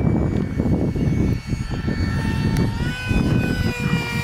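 Whine of the 64 mm electric ducted fan of a Freewing F-35 RC foam jet in flight, rising in pitch about three seconds in, over heavy wind buffeting on the microphone.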